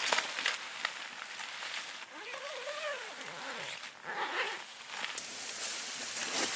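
A dog whining twice: a short whine that rises and falls about two seconds in, and a briefer one about four seconds in. Under it runs a steady hiss with light crackles.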